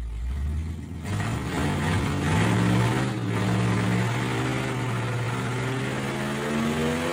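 1968 Dodge Charger's 361 big-block V8 pulling under acceleration, its note rising slowly and steadily in pitch.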